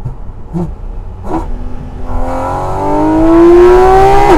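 Porsche 718 Cayman GT4 RS's naturally aspirated 4.0-litre flat-six under hard acceleration with the sport exhaust open, its revs climbing steadily for about three seconds, then dropping sharply near the end at a PDK upshift.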